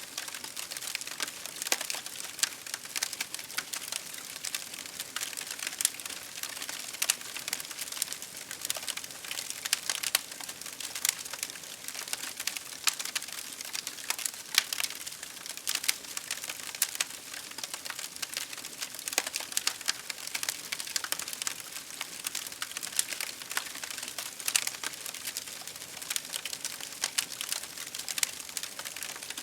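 Campfire crackling, with many irregular sharp pops and snaps over a steady hiss of rain.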